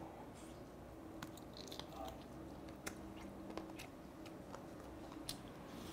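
Faint close-up eating sounds of a person biting salt-grilled charcoal chicken off the bone and chewing it, with scattered small mouth clicks.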